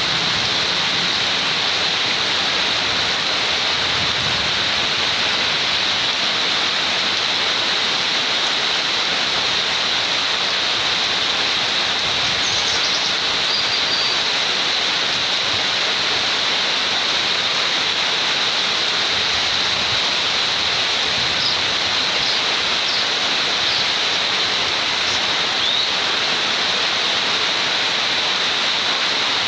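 Steady rain, an even hiss with its weight in the upper range and no thunder. A few faint high chirps come through about halfway and again later.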